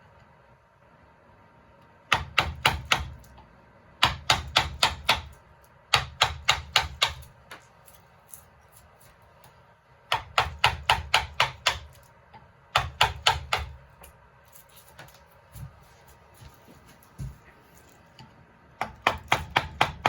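Mallet tapping a wood-carving chisel into wood, in quick bursts of five to eight sharp taps, each burst lasting about a second, with short pauses between them.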